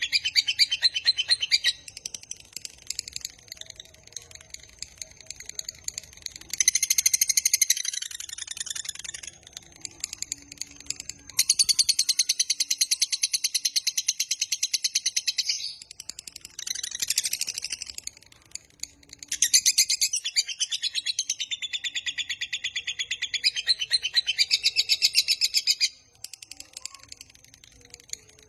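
Lovebird singing its long 'ngekek' chatter: bouts of rapid, shrill, evenly repeated notes lasting several seconds each, broken by short pauses.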